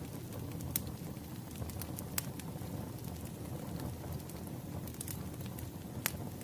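Crackling wood fire: a steady low rumble of burning logs with scattered sharp pops, the loudest about a second in, about two seconds in and near the end.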